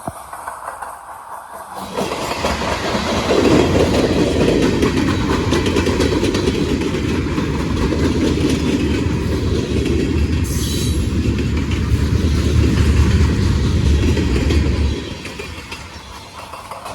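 Freight train passing at close range, its wheels clattering and rumbling over the rails. The noise builds in about two seconds in and cuts off sharply near the end, with a brief high-pitched wheel squeal about two-thirds of the way through.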